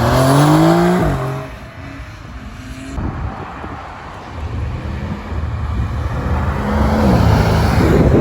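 Car engines accelerating. One engine revs with its pitch climbing through the first second, then cuts off abruptly. Later another engine builds and grows loud near the end.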